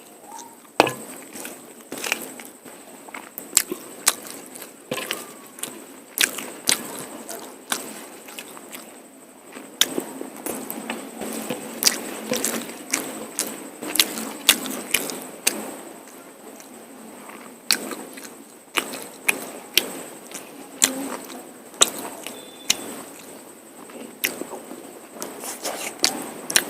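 Close-up eating sounds of mutton curry and polao rice: chewing with irregular sharp, wet smacks and clicks, a few every couple of seconds.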